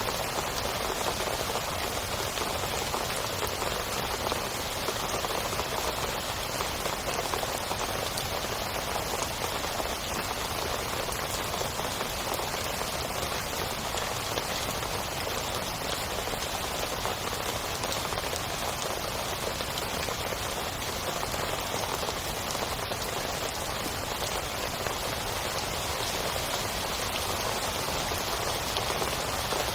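Heavy rain falling steadily on a tent, an even wash of raindrop hits with no break or change.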